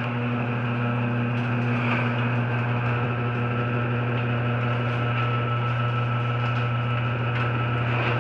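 Overhead Door Odyssey chain-drive garage door opener running, its motor giving a steady, even hum as it drives the door along the rail.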